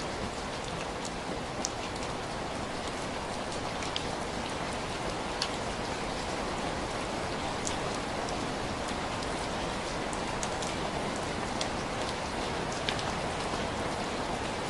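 Steady rain, an even hiss, with scattered sharp ticks of drops or small pops every second or so.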